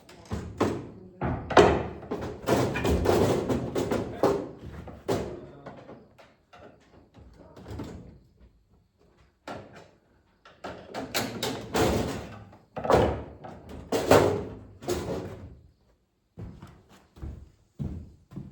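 Irregular knocks, clunks and rattles of hands and tools working on a microwave oven's parts and casing, in two busy stretches with scattered taps between.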